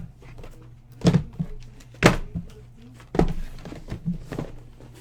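Boxes of trading cards being handled and set down on a table: four dull thunks, about one a second.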